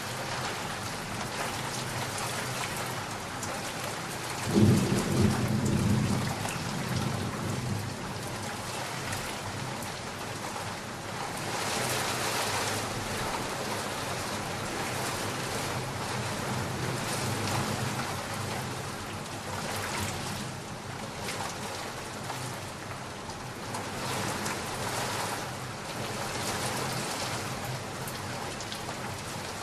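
Steady heavy rain falling, with a clap of thunder rumbling low about four seconds in that dies away over a couple of seconds.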